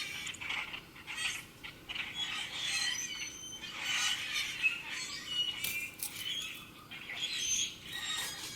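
Several small songbirds chirping and singing over one another in a busy, continuous chorus of short high chirps and trills.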